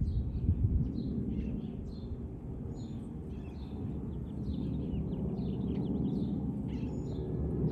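Small birds chirping and twittering in quick repeated calls, over a steady low rumble.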